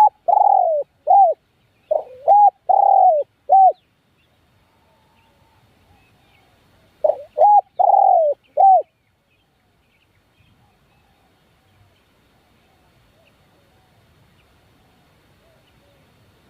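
A dove cooing in two phrases of several short, arched coos each, the first at the start and the second about seven seconds in.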